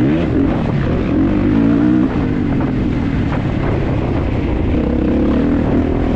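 Kawasaki KX450's single-cylinder four-stroke engine being worked hard in a motocross race, its pitch rising and falling repeatedly as the throttle is opened and closed, with a brief drop about two seconds in.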